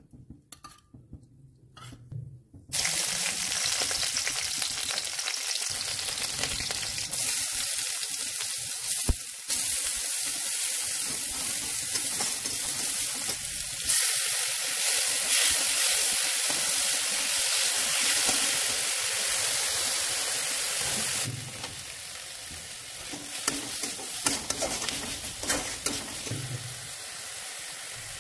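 Chopped onion, green chilli and tomato sizzling in hot oil in a steel wok, the sizzle starting suddenly about three seconds in. A metal spatula stirs and scrapes the pan; the sizzle gets louder about halfway through, then drops quieter, with sharp spatula scrapes standing out near the end.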